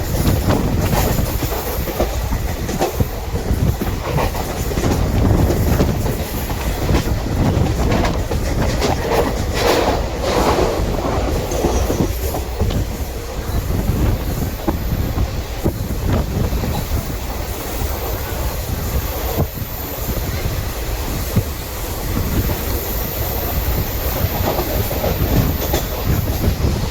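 Passenger train running on the rails: a steady rumble with the wheels clicking over rail joints throughout.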